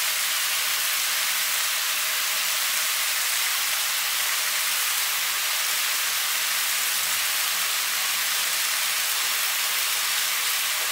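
Pumpkin cubes with tomato and onion sizzling in oil in a pan, a steady even hiss.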